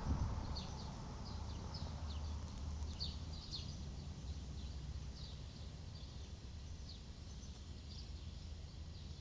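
Birds chirping: many short, high chirps that slide downward, coming irregularly, over a steady low rumble.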